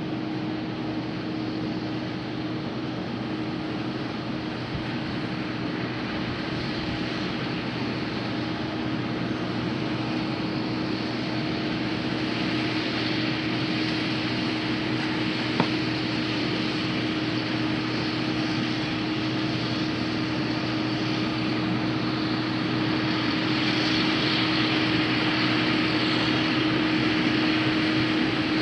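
IH 2577 combine harvester running steadily under a steady engine hum, growing gradually louder as it nears. There is a single sharp click about halfway through.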